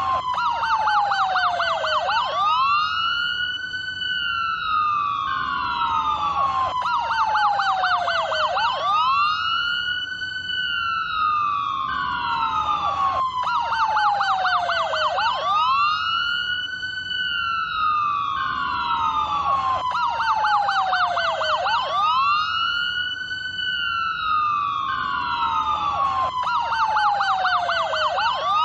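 American police car electronic siren cycling through its tones: a slow falling sweep, a burst of rapid yelping, then a rising wail that levels off, repeating about every six and a half seconds.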